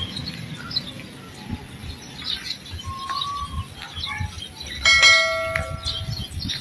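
Birds chirping, with a sudden ringing tone about five seconds in that dies away over about a second.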